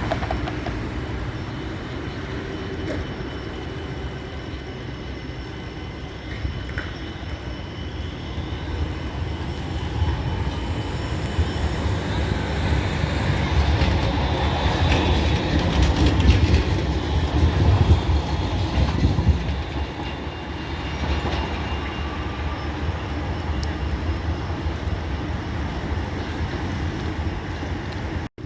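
Tram running past on its rails: a steady rumble that grows to its loudest about two-thirds of the way through, then fades again.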